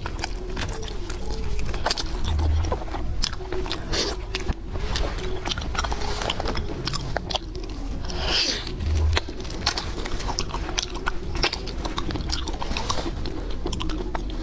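Close-miked eating: biting into and chewing seafood, with many sharp crunches and crackles throughout.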